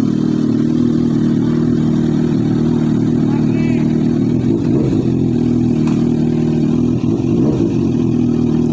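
Motorcycle engine idling steadily, a low even hum that holds the same pitch throughout.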